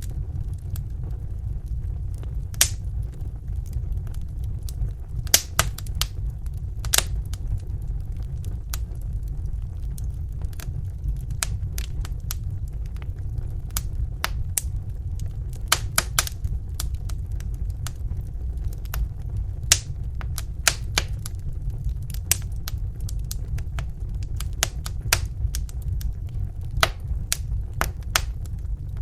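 Wood fire burning in a fireplace: a steady low rumble of the flames with sharp, irregular crackles and pops from the burning logs, a few each second.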